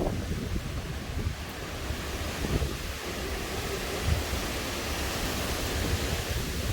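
Strong storm wind rushing steadily, buffeting the microphone with a low rumble. A short sharp thump right at the start.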